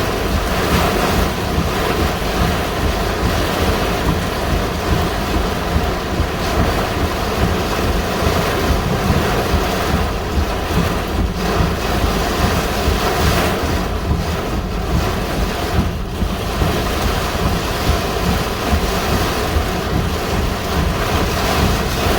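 Strong gusty wind buffeting the microphone, a steady loud rushing roar with a heavy low rumble that rises and falls with the gusts.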